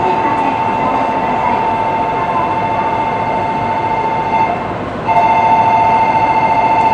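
Shinkansen platform sound: a steady high-pitched tone with overtones over a constant hum. The tone breaks off briefly about four and a half seconds in and resumes louder about half a second later.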